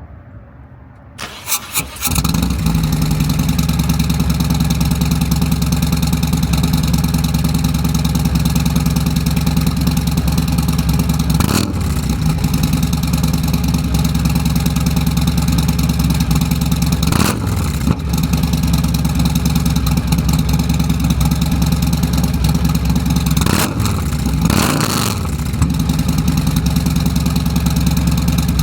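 Harley-Davidson Road King's Milwaukee-Eight 114 V-twin, fitted with a Screaming Eagle 447 torque cam and D&D Billet Cat exhaust, cranking and firing up about a second in, then idling loudly and steadily. It is revved briefly a few times, near the middle and once more near the end.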